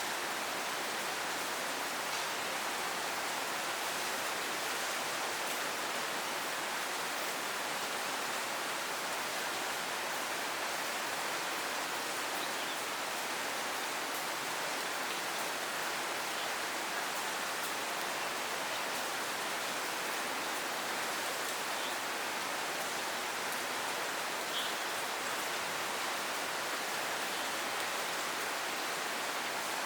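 Steady rain falling and pattering on surfaces, an even hiss with occasional faint drop ticks.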